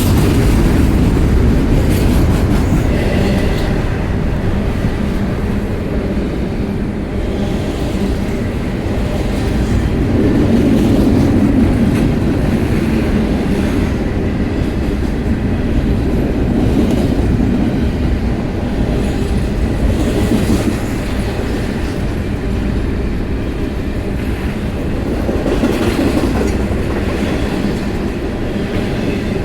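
A train rolling past close by: a loud, steady rumble of cars with wheels clattering over the rail joints.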